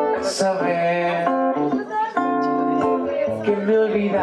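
Music: acoustic guitar strumming and picking chords, with a bright splash-like accent about a third of a second in.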